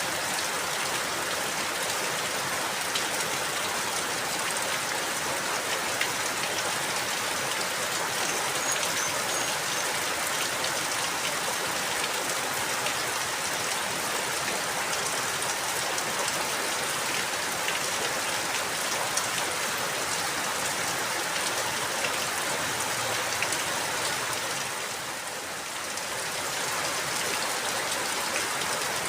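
Steady rain falling, with the patter of many individual drops on a surface. The level dips briefly near the end, then returns.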